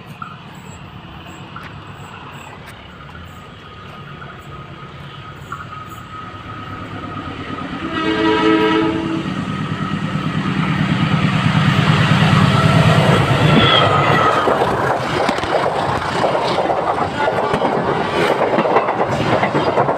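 A train approaching and passing close by. It sounds its horn once for about a second and a half about eight seconds in, then goes by loudly with wheels clattering over the rails.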